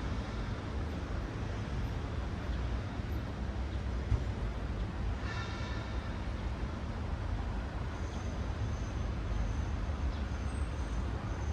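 Steady rumble of city traffic as cars pass along the road. A sharp click comes about four seconds in, and a brief higher-pitched sound a little after five seconds.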